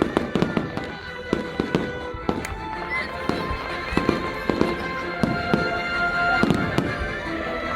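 Aerial fireworks display: an irregular run of sharp bangs and crackles, several a second, with music of long held tones playing underneath.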